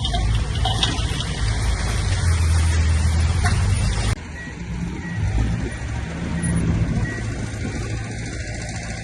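Heavy diesel earthmoving machinery running under load. About four seconds in it cuts off abruptly and a different, slightly quieter engine sound carries on.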